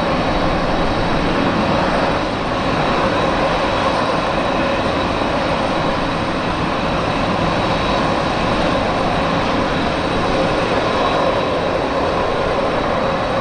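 Jet airliner engines running steadily: a dense, even rush with a constant whine on top.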